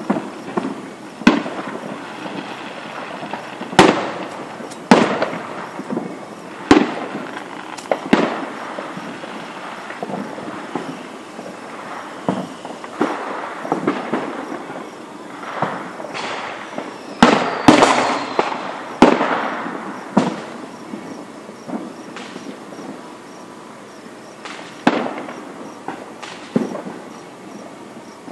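Aerial fireworks going off in an irregular series of sharp booms, with crackling and rumbling between the bangs. The bangs are busiest about two-thirds of the way through, where a whistle falls in pitch.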